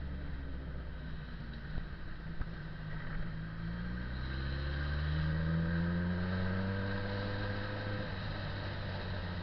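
Motorcycle engine running. Its pitch rises from about four seconds in as it accelerates, then holds steady.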